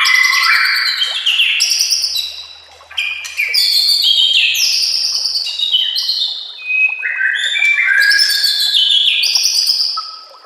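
White-rumped shama (murai batu) singing a fast, varied song of loud whistles and trills, with a short pause about two and a half seconds in. The song stops just before the end.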